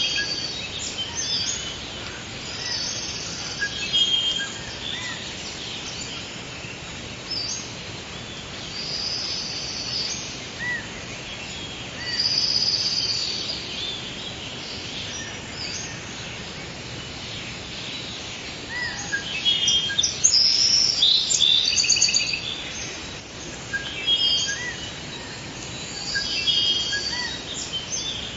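Forest ambience: several birds chirping and trilling, with short calls coming every second or two and a busier run of trills about two-thirds of the way in, over a steady background hiss.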